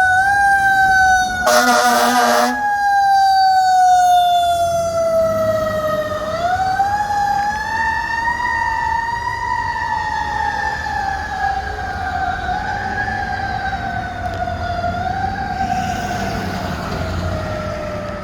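Fire engine's siren wailing, its pitch sliding slowly down, rising again about six seconds in, then falling away. A horn blast of about a second sounds near the start. The sound grows gradually fainter toward the end.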